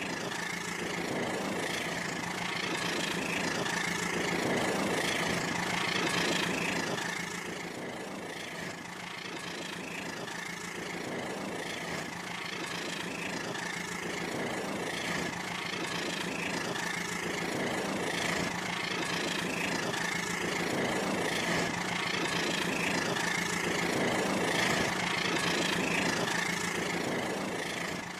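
Rail King battery-powered toy train running on its track: a steady electric motor whine with a rhythmic pulse about once a second.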